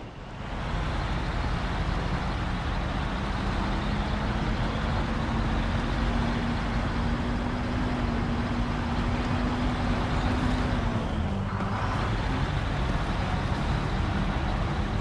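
Heavily loaded truck's engine pulling under load, with a steady droning note over dense mechanical and road noise; the note drops away about eleven seconds in.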